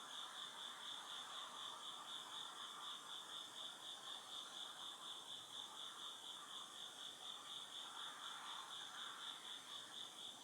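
Autumn insects calling: one high, even, pulsing chirp repeating several times a second, over a fainter, lower chorus of insect song.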